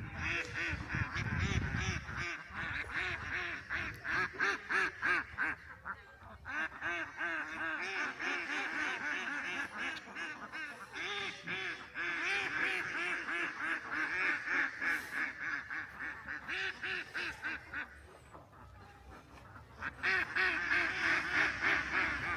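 Duck quacking in rapid runs, several quacks a second, in bouts of a few seconds broken by short pauses.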